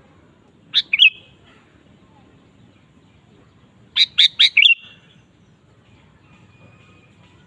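Sooty-headed bulbul (kutilang) calling: a short two-note phrase about a second in, then a quicker four-note phrase about four seconds in.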